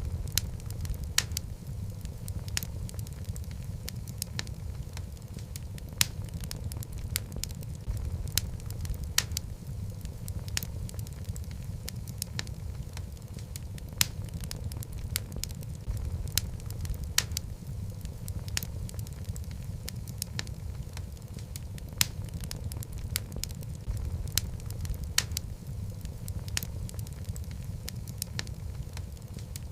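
Wood fire of burning logs in a fireplace: a steady low rumble of flame with frequent irregular crackles and sharp pops.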